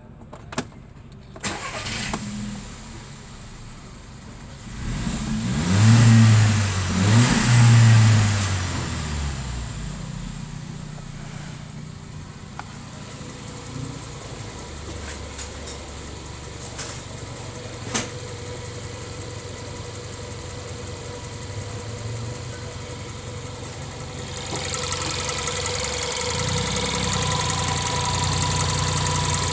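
Skoda Yeti car engine cranking and catching, blipped up in revs twice, then settling to a steady idle. About 25 seconds in it gets louder, with a hiss over the idle.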